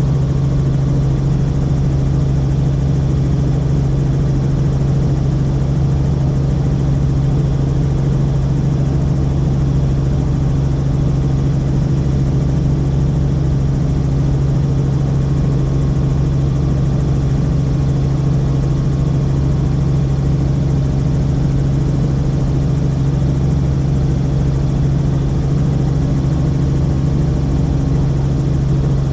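Helicopter in steady cruising flight heard from inside the cabin: a loud, constant drone with a strong low hum.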